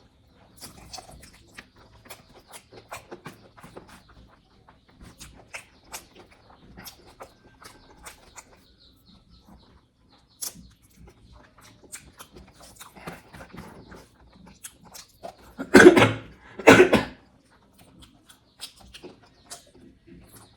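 Close-miked eating sounds from a pork curry and rice meal: soft, scattered lip smacks and chewing clicks. About three-quarters of the way through there are two loud, short throaty sounds in quick succession.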